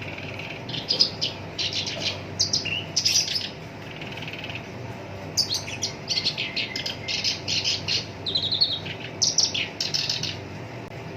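Black-browed reed warbler singing its harsh, chattering song of rapid repeated notes, in two phrases: a short one about a second in and a longer one from about halfway through. Between the phrases there is a faint, steady buzzy trill.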